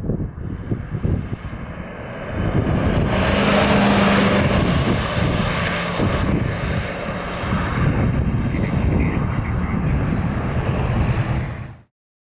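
Fire apparatus driving past on an emergency response: heavy engine and road rumble with wind buffeting the microphone, cutting off suddenly near the end.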